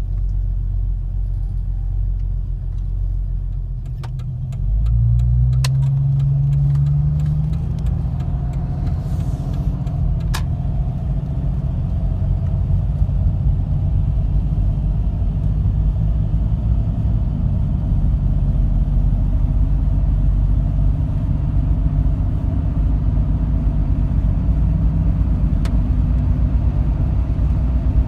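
Jeep Cherokee 4.0 inline-six exhaust, through a Banks Torque Tube header and Flowmaster Super 10 muffler, heard inside the cab with the windows up as a deep rumble. About four seconds in the engine note rises as it pulls away, then settles into a steady, slightly louder drone.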